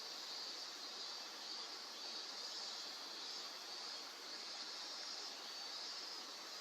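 Faint steady outdoor ambience: an even hiss with a high band that swells and fades slightly, and no distinct events.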